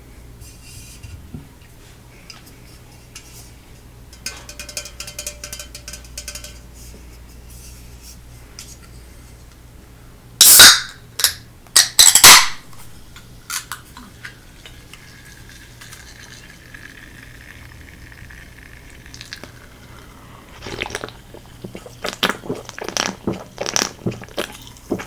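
Tableware and food containers being handled for a meal: clinks, rustling and knocks of dishes and utensils. There are two loud sudden bursts about ten and twelve seconds in, and a run of sharp clicks and knocks near the end.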